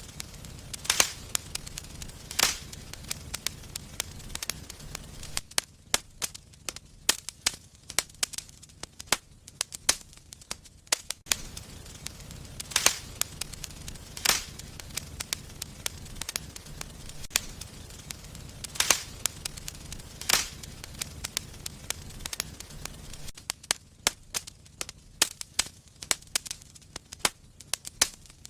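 Fire burning in a fireplace, crackling with irregular sharp pops, a few louder than the rest, over a low steady rumble.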